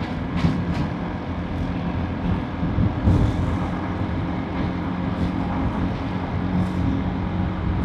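Motorbike engine running at a steady cruise, with wind and tyre noise. A few brief clicks or knocks come near the start and again about three seconds in.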